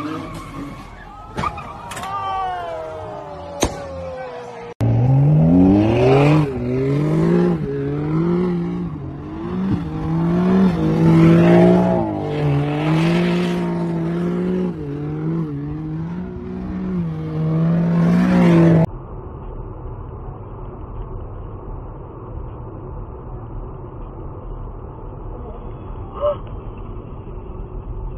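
Car engines at high throttle: first an engine revving up and down, then, from about five seconds in, a car engine held at high revs with a wavering pitch for about fourteen seconds as the car drives hard over sand dunes. It cuts off suddenly to a steady, muffled hum of road noise from inside a car on a highway.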